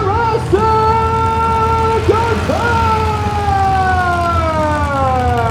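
Monster truck engine revving hard: the pitch jumps up quickly, then sinks slowly as the revs fall away. This happens twice, the second rise about two and a half seconds in.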